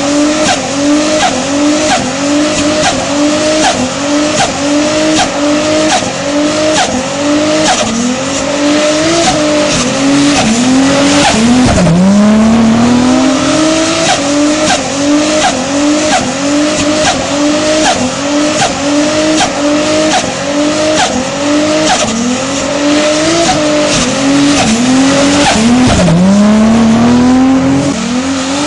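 Toyota 2JZ-GTE turbocharged inline-six in a Trailblazer SS, revved hard over and over: the pitch climbs and falls back about once a second, with two longer climbs about twelve seconds in and near the end. Tyres squeal underneath as they spin in a burnout.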